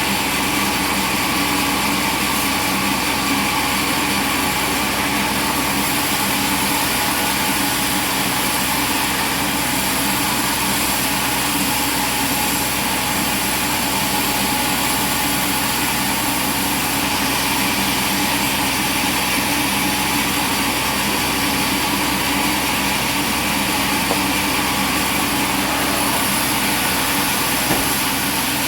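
Machinery running steadily with an engine-like hum and hiss, unchanging throughout.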